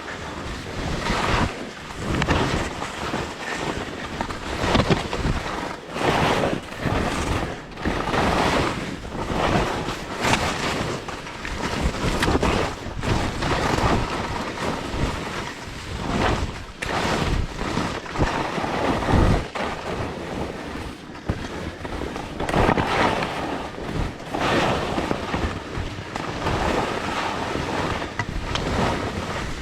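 Wind buffeting the microphone of a camera carried by a skier descending, with skis scraping and hissing over snow in surges that come and go every second or two as he turns.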